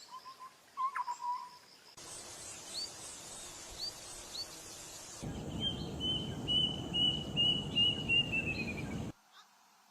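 Bird calls over outdoor background noise in three spliced pieces: a few faint chirps, then short rising chirps over a hiss, then a run of about ten quick repeated high whistled notes falling slightly in pitch over a louder noise bed, which cuts off abruptly near the end.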